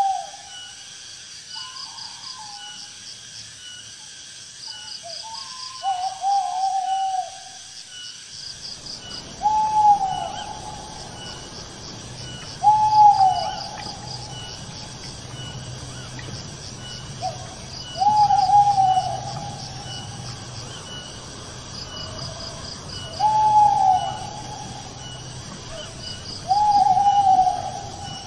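Owl hooting: single short hoots that rise and then fall in pitch, repeated every few seconds, with a few softer, broken calls in the first several seconds. Crickets chirp steadily in a fast, high rhythm underneath, and a low background hum comes in about eight seconds in.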